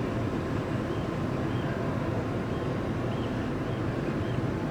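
Steady low rumble of a car ferry under way, its engines and the rush of air on deck, with a faint high chirp repeating about twice a second.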